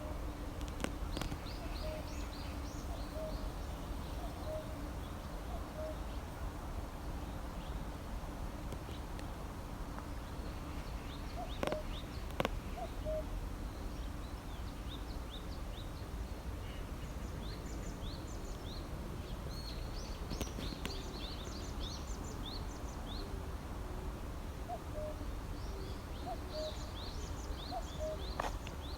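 Songbirds chirping and singing in quick runs of short high notes that come in clusters, with a lower short call repeated about once a second near the start and again near the end, over a steady low background rumble. Two sharp clicks sound about twelve seconds in.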